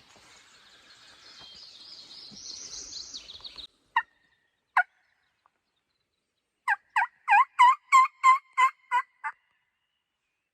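A turkey locator call blown close by to shock a gobble out of a distant tom. Two short single notes come first, then a loud rapid run of about nine harsh notes, three or four a second. A faint rising hiss is heard during the first few seconds.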